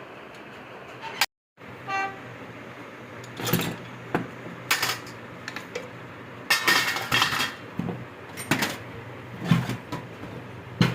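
Metal tools and parts clanking and knocking at irregular intervals over a steady background hum, with a short vehicle horn toot about two seconds in.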